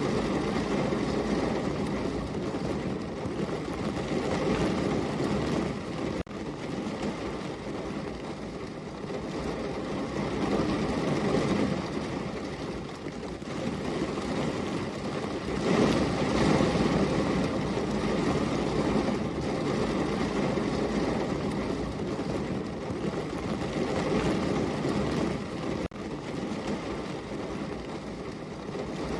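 Steady rain, a dense even hiss heaviest in its low rumble, swelling and easing in loudness and dipping for an instant twice.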